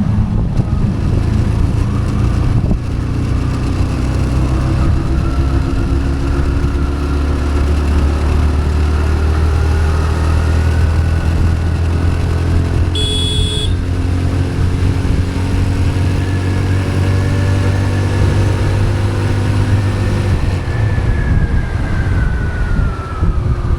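TVS Raider 125's single-cylinder engine pulling hard as the bike accelerates, its pitch climbing steadily over most of the stretch and falling away near the end as the throttle eases. Heavy wind rumble over the action camera's built-in microphone runs under the engine, and a short high beep sounds about halfway through.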